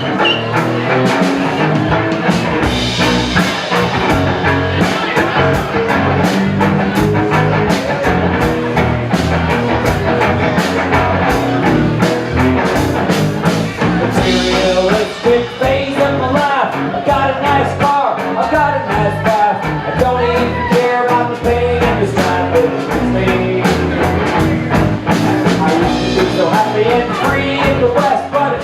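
A live rock band playing an instrumental stretch of a song, guitar-led over bass and drums.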